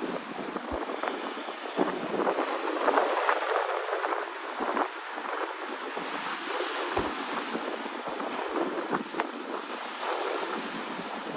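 Rough sea waves crashing and washing against rocks in strong wind, a continuous hiss that surges with each wave, loudest a couple of seconds in.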